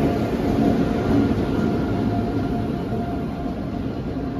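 Passenger train pulling in on the next track, its coaches rolling past close by with a steady rumble and hum that eases off slightly as it slows to a stop.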